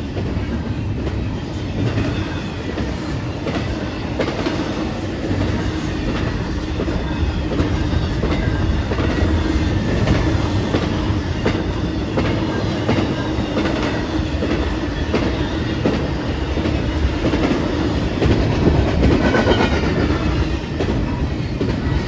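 A train rolling past, its wheels clicking over the rail joints with a steady low hum underneath.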